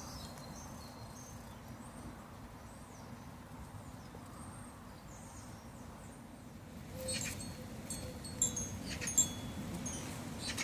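Birds chirping in short, high calls, sparse at first and busier in the second half, over a low steady rumble of background noise.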